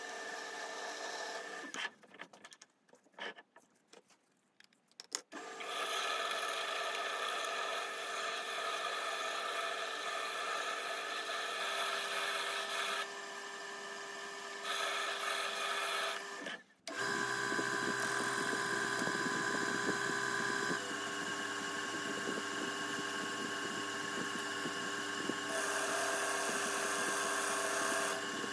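Small machine tool's electric motor running with a steady whine. It drops out for a few seconds about two seconds in, then runs on with a brief break about two-thirds through, after which its pitch pattern shifts.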